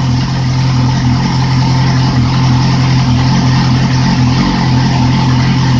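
2008 Yamaha R6 inline-four motorcycle engine idling steadily on an engine stand while it warms up from a cold start.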